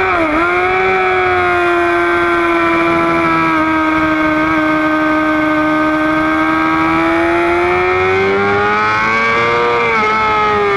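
Sport motorcycle engine running hard at high revs, heard from a camera mounted on the bike, with wind rush. The pitch dips sharply just after the start and then holds nearly steady for several seconds. It climbs again and falls back briefly near the end.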